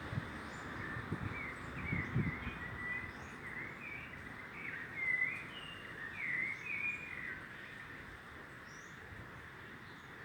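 Birds chirping and twittering in many short, quick notes, busiest in the middle and thinning out near the end, over a steady background hiss. A few low thumps in the first two seconds.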